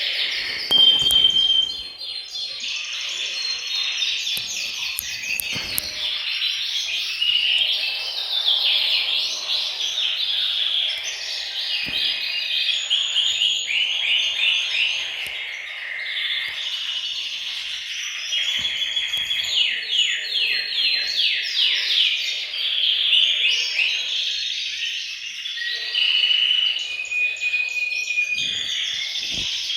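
Several male canaries singing together, their songs overlapping continuously: fast rolling trills mixed with held whistled notes.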